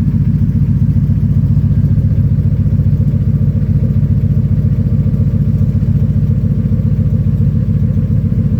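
Ford 5.4-litre V8 idling steadily through a homemade exhaust: a Flowmaster FlowFX muffler welded to a Cherry Bomb muffler, with no catalytic converter. The note is a deep, even rumble with a fast pulse.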